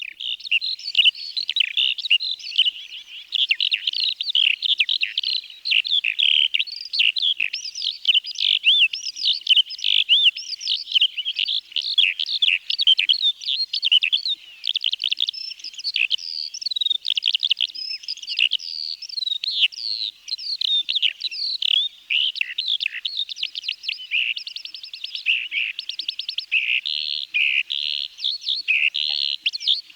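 Eurasian skylark singing: one long, unbroken stream of rapid, high warbling and trilling notes.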